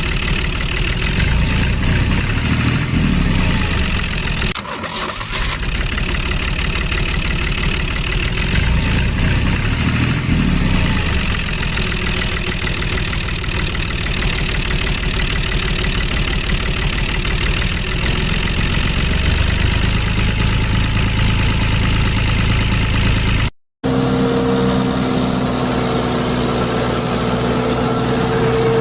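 An engine running steadily with a rough rumble that swells a couple of times. Near the end it cuts out abruptly, then a steadier hum with a clear tone takes over.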